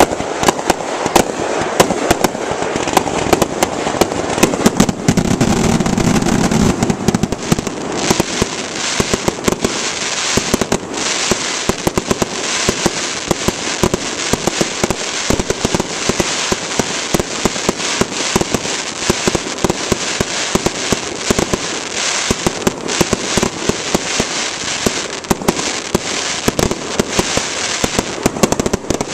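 Fireworks display: a dense run of sharp bangs and crackling, many shells bursting in quick succession, with a heavier low rumble about five to seven seconds in.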